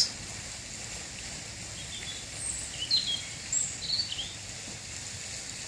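A few short, high bird chirps around the middle, over a steady outdoor background hiss.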